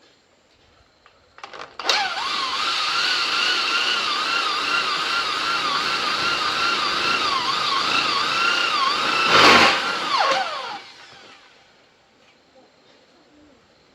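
Handheld electric power tool starting up about two seconds in and running for about nine seconds under load, its whine wavering in pitch. A sharp knock comes near the end, and the motor then winds down with a falling whine.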